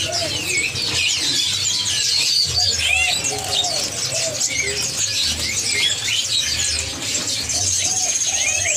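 Many caged songbirds chirping and whistling together in a dense chorus, with doves cooing in short low phrases a few times.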